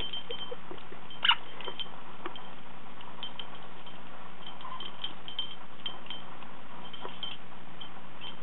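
A small bell on a homemade parrot toy tinkling in short, scattered jingles as a quaker parrot plays with it, with a sharper clink about a second in.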